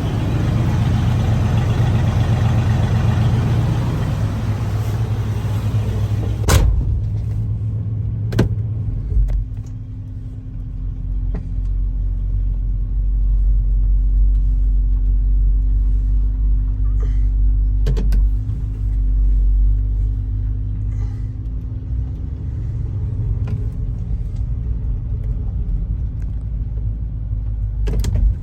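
1979 GMC Jimmy's engine running after a cold start. It is louder and fuller for the first several seconds, then settles to a steadier, lower idle about nine seconds in. There are a few sharp clicks along the way.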